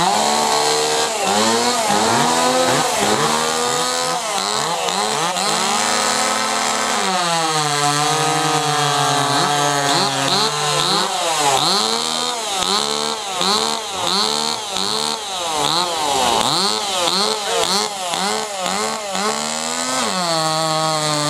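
Small two-stroke chainsaw in the 2.3–2.6 cc class running hard while cutting a log, its pitch repeatedly sagging and recovering as the chain loads in the wood. For a few seconds near a third of the way in, it holds a lower, steadier pitch.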